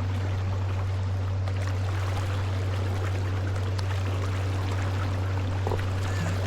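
Water trickling and splashing around an inflatable kayak, over a loud, steady low hum.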